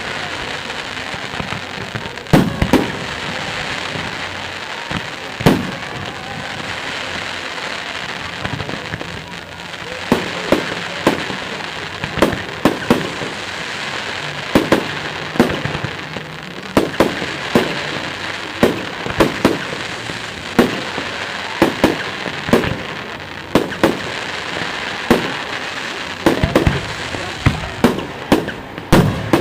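Fireworks display: aerial shells bursting with sharp bangs at irregular intervals, a few at first and in quick succession from about ten seconds on, over a continuous crackling hiss.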